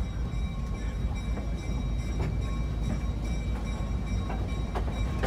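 California Western Skunk Train rolling along the track: a steady low rumble with scattered clicks.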